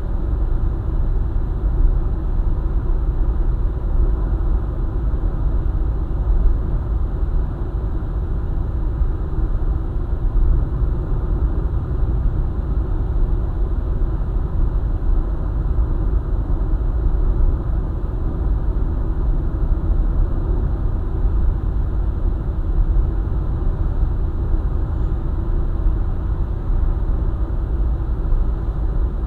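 Car driving along a highway: a steady low rumble of road and engine noise, even throughout.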